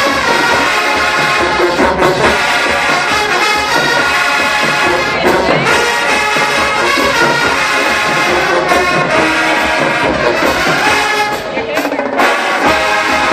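HBCU marching band playing loud, brass-heavy music, trombones and trumpets to the fore, in a 5th-quarter band battle.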